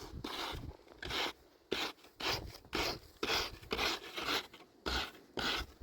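Repeated scraping strokes over a rough surface, about two a second, each short and even, with brief pauses between them.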